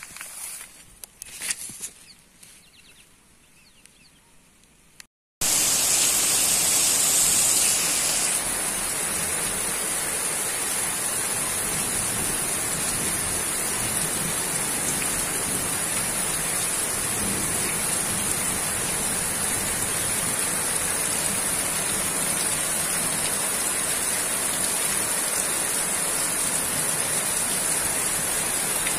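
Steady rain falling on trees and foliage, an even hiss that starts abruptly about five seconds in. Before it, a few soft rustles of leafy plants brushing past.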